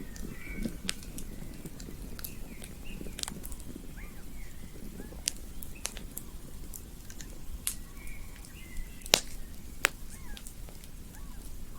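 Campfire crackling, with sharp irregular pops over a steady low rumble of burning wood, and faint short chirps in the background.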